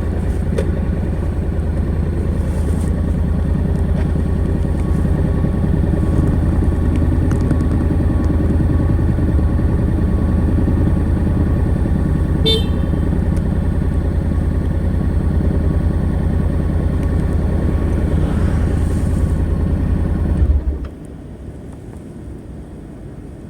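Honda NC700X's 670 cc parallel-twin engine on its stock exhaust running at a steady, even pitch, then cutting out suddenly about 21 seconds in. A brief high beep sounds about halfway through.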